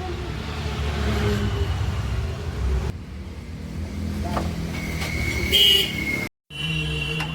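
A freshly rebuilt Bajaj Pulsar 150 single-cylinder four-stroke engine running, first start after its overhaul, with a brief dropout in the sound near the end.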